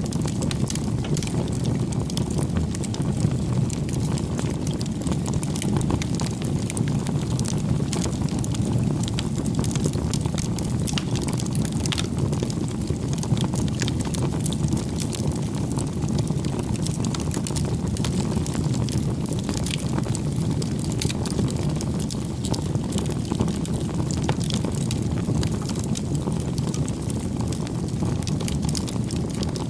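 Campfire burning, a steady low rush of flame with frequent small crackles and pops from the burning wood.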